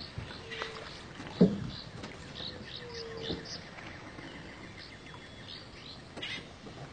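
Scattered bird chirps and calls over a quiet outdoor background, with one sharp low thump about a second and a half in.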